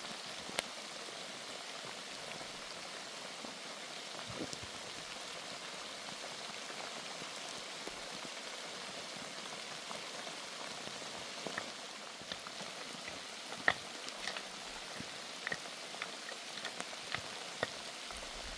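Steady rain falling, with sharp drops tapping now and then on a nearby surface, more often in the second half.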